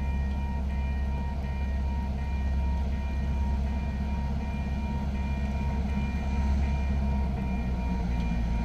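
Diesel-electric freight locomotives running, a steady low engine rumble, with faint steady high tones above it.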